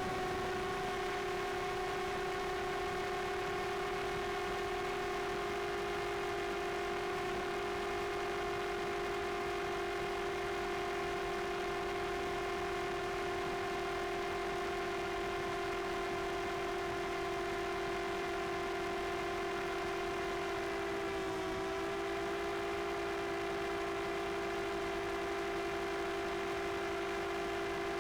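DJI Air 2S quadcopter's propellers humming steadily in flight, with the pitch dipping briefly about two-thirds of the way through.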